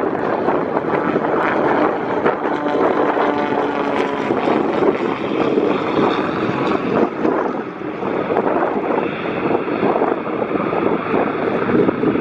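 Douglas DC-3's twin radial piston engines and propellers running, heard through heavy wind buffeting the microphone. The engine tones are clearest in the first few seconds.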